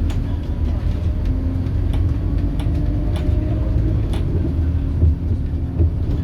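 Scania K280UB city bus under way, its Scania DC9 diesel running with a steady low rumble and a faint steady whine, with light rattles and clicks throughout.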